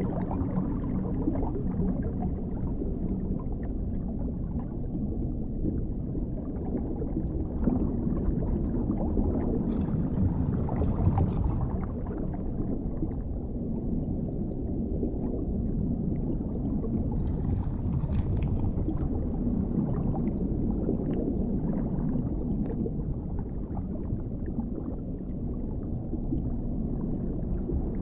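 Underwater ambience: a steady, deep, muffled rumble with a low hum, and faint crackles and bubbling now and then.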